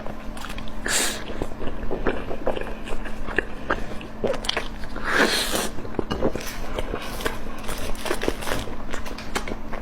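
Close-miked eating: a person biting and chewing food with many small wet clicks and smacks, and two louder hissing sucks about a second and five seconds in. A faint steady hum sits underneath.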